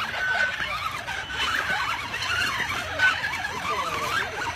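Whine of an RC rock crawler's small electric motor and gears as the truck crawls, its pitch wavering up and down with the throttle.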